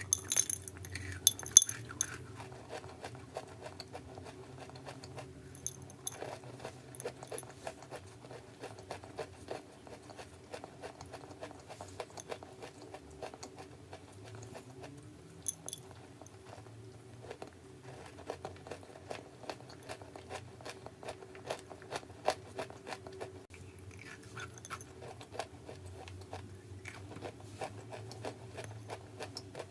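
Close-miked crunching and crumbling of brittle chalky clay: a dense, continuous crackle of small crisp cracks, with a few louder snaps in the first two seconds and again around the middle.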